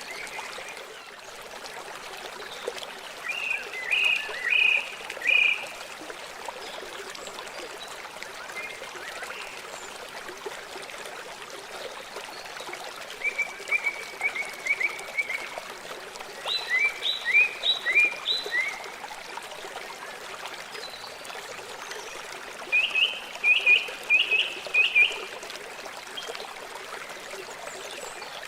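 River water flowing steadily, with a bird calling over it in four phrases of quick repeated chirps.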